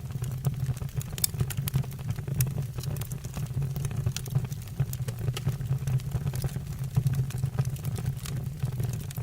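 Wood fire burning in a fireplace: frequent, irregular sharp crackles and pops of the burning logs over a steady low roar of the flames.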